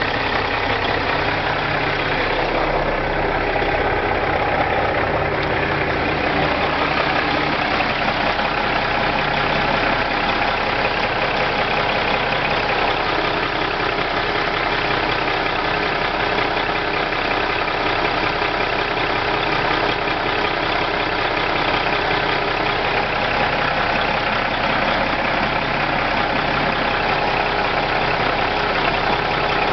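Cummins diesel engine of a 2006 International 9400 truck idling steadily.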